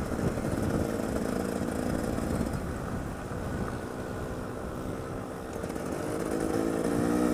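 Off-road motorcycle engine running on a trail ride, revving up with its pitch climbing near the end. Heard through an action camera's internal mic in an open skeleton housing, with low wind rumble on the microphone.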